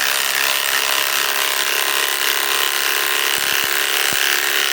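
Ryobi PSBIW25 compact cordless impact wrench running continuously under load, hammering steadily as it drives a lag screw into wood.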